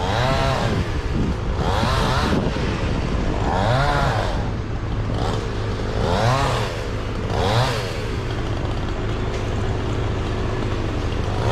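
Chainsaw engine revving up and back down about every two seconds, five times, over its steady lower running note.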